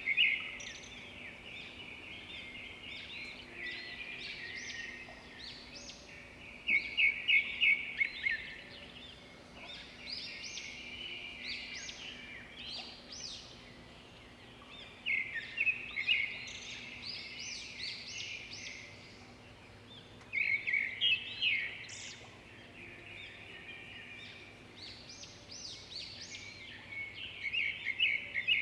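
Birds singing: a continuous chatter of chirps, broken every several seconds by a loud, rapid run of repeated notes.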